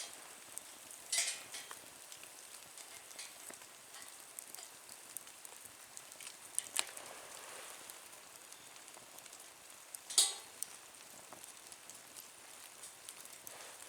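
Small wood fire in a nature stove, crackling and hissing steadily. Two sharp pops stand out, about a second in and again about ten seconds in.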